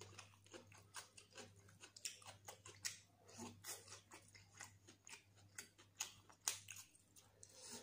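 Close-miked eating sounds: irregular crisp clicks, crunches and wet mouth sounds from chewing fried fish, with a sharper crunch about six and a half seconds in as a raw onion ring is bitten.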